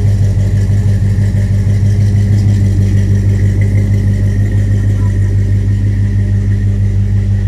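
1966 Chevrolet Nova Super Sport's V8 idling steadily and loudly, with a slight even pulse to its note.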